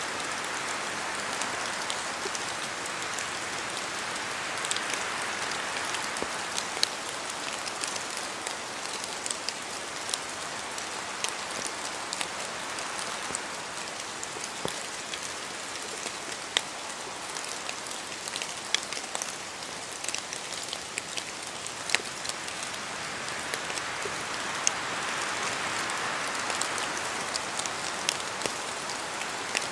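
Steady rain falling in a forest, an even hiss with scattered sharper ticks of heavier drops landing from the trees. The hiss swells a little early on and again near the end.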